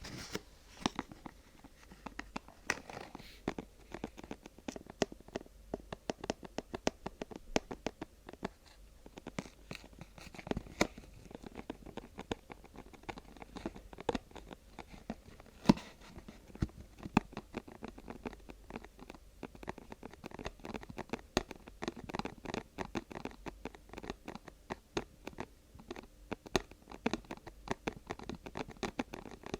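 Close-miked ASMR handling of vinyl, paper or plastic: a dense, irregular run of small crinkles and scratches, with a few sharper taps standing out.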